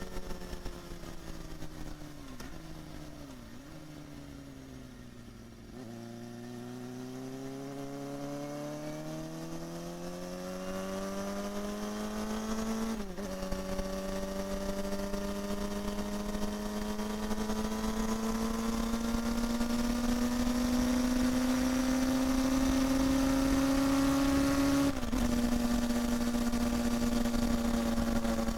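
Honda Hornet 250's inline-four engine and exhaust under way: the note falls as the bike slows, with two quick blips like downshifts, then climbs steadily as it accelerates, dropping sharply twice at upshifts and rising again, growing louder.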